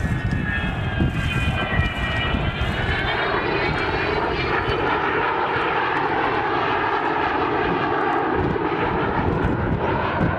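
Engine of a display aircraft flying overhead, with a whine that rises in pitch about two to four seconds in and then holds steady, mixed with wind buffeting the microphone.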